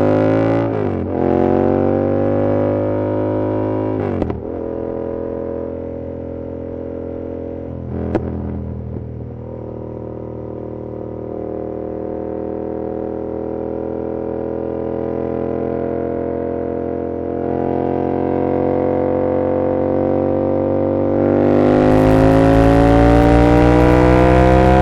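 Yamaha R7's 689 cc parallel-twin engine through an aftermarket SC-Project CR-T exhaust. In the first few seconds it revs up and drops back twice as the rider upshifts, then pulls with slowly rising revs. Near the end the throttle opens and the exhaust note climbs, louder and harsher.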